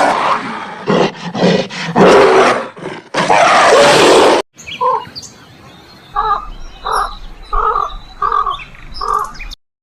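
A big cat roaring in several loud, rough bursts. After a cut about halfway through, a different animal gives a series of about six short calls, evenly spaced roughly two-thirds of a second apart.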